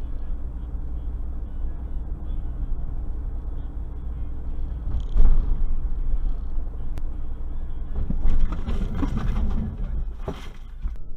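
Car driving, heard from inside the vehicle on a dashcam: a steady low engine and road rumble, with a sudden loud thump about five seconds in and louder, harsher noise from about eight seconds on.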